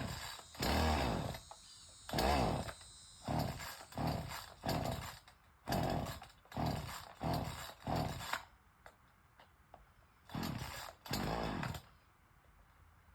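A chainsaw being pull-started over and over: about eleven quick yanks of the starter cord, each a short whirring stroke that falls in pitch. Nine come in a run, then two more after a pause of about two seconds, and the engine does not catch. This fits the saw not getting fuel, which the men put down to its broken primer bulb and empty carburetor.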